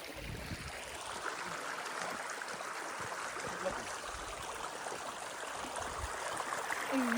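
Steady rushing hiss of running water, thickening about a second in, with a few dull low thuds.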